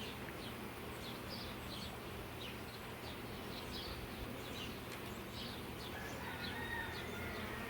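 Honey bees buzzing as a steady low hum around an open hive, with many short high bird chirps over it.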